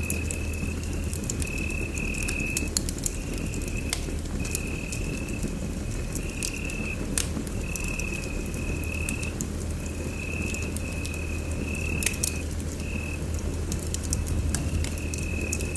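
Wood fire in a fireplace crackling and popping with irregular sharp snaps over a steady low rumble. A thin high-pitched tone comes and goes in short stretches throughout.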